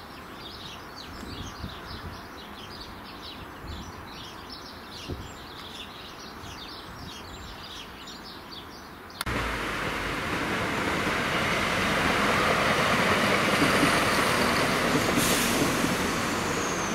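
Birds chirping over the low rumble of a diesel multiple unit on a wooded curve. About nine seconds in, a sudden cut brings a passenger train passing close by: a loud, steady rushing of wheels on rail that builds for a few seconds. A brief high squeal near the end.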